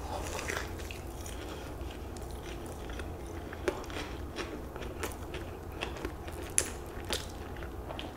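Close-miked chewing of a mouthful of spicy fried chicken sandwich on a soft brioche bun, with scattered small crunches and mouth clicks.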